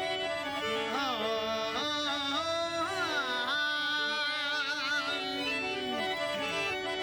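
Rajasthani Manganiyar folk music: a harmonium plays held, stepping notes while a male voice sings a long, sliding, ornamented phrase that fades out about two-thirds of the way through.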